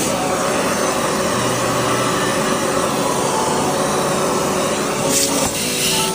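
A steady rushing machine noise, like a motor-driven cleaning appliance running continuously.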